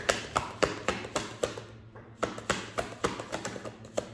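A deck of tarot cards being shuffled by hand: a quick, even run of card slaps, about four a second, thinning out near the end.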